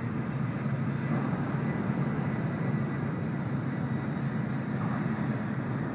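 Steady running noise inside the passenger cabin of an N700 series Shinkansen: an even low rumble under a broad rush of sound.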